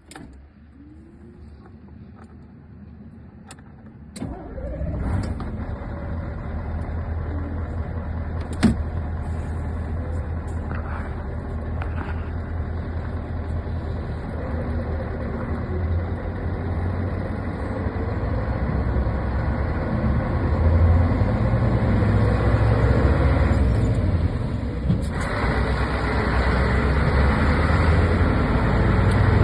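Scania R164's 16-litre V8 diesel engine starting about four seconds in, then running at idle with a deep steady rumble that grows louder in the second half. A sharp click about nine seconds in.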